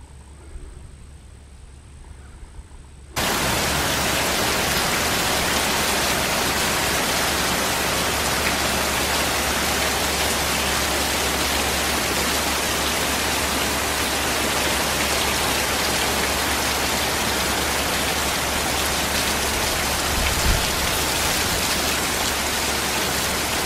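Heavy rain pouring down in a steady, even rush. It cuts in suddenly about three seconds in, after a quiet start.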